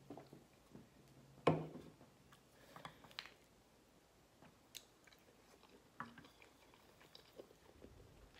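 Close-miked eating sounds: a sip from a can, then chewing of soft macaroni and cheese, with small wet clicks and smacks. One louder, lower mouth sound comes about a second and a half in.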